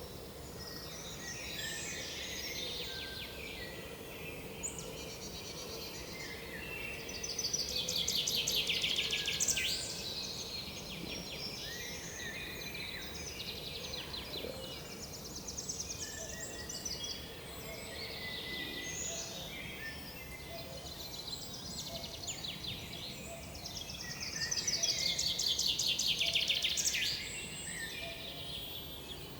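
Several woodland songbirds calling and singing over a steady background hiss. Two louder songs made of rapid trills stand out, one about seven seconds in and one near the end.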